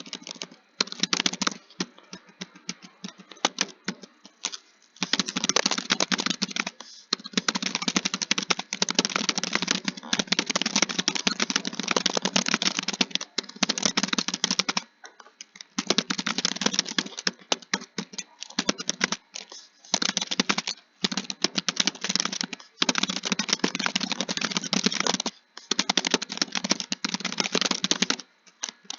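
Fast, continuous keyboard typing, dense runs of key clicks broken now and then by brief pauses.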